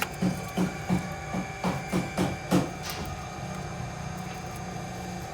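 A quick series of about nine sharp metal knocks and clicks, roughly three a second, from hand tools working on the car engine's valve train during tappet shim adjustment. They stop about three seconds in, leaving a steady background hum.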